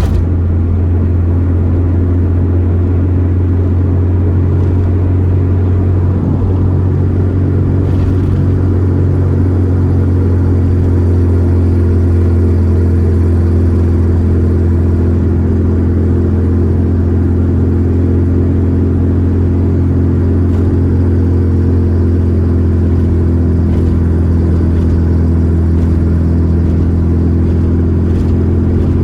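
Volkswagen Gol G4 Rallye's four-cylinder engine and road noise while driving at a steady speed: a steady low drone that holds the same pitch throughout.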